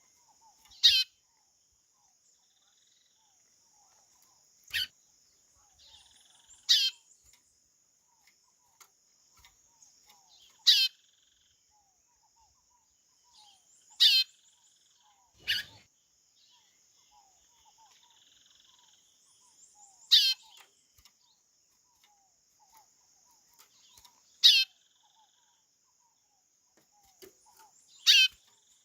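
White-bellied seedeater (chorão) calling: about nine short whistled calls spaced a few seconds apart, each falling quickly in pitch. A faint steady high hiss runs underneath.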